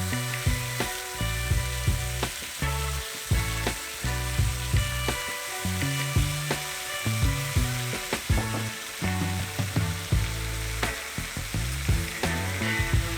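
Thin slices of marinated pork searing in a hot frying pan, a steady sizzle, with background music and a moving bass line over it.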